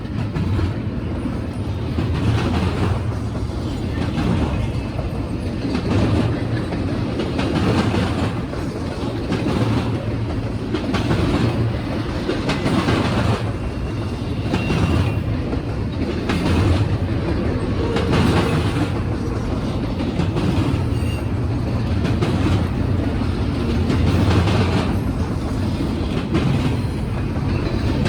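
Norfolk Southern freight train rolling past at speed: a steady rumble of cars on the rails, with a recurring clickety-clack as the wheels cross rail joints.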